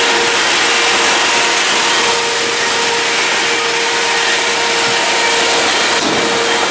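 Passenger train rolling along, heard from on board: a loud, steady rush of wheel and rail noise with a held mid-pitched whine that breaks off briefly about five seconds in.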